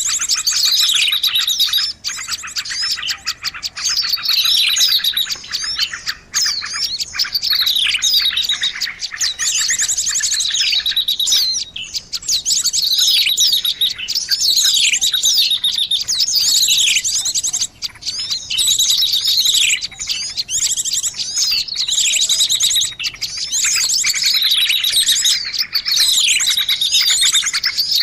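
Noisy bird-lure track of small birds chattering: rapid, dense chirps with a high, falling call repeated about every two seconds.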